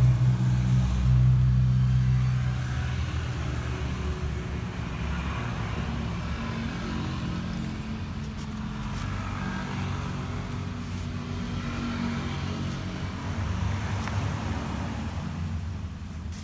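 Vespa LX i-get scooter's single-cylinder engine idling steadily, a little louder for the first two seconds before settling.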